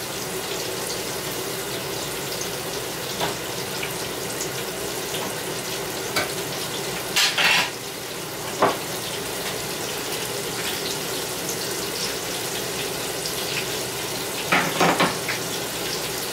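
Breaded green tomato slices frying in hot grease in a pan, a steady sizzle. A handful of short clinks and scrapes of a utensil against the pan come as the slices are turned.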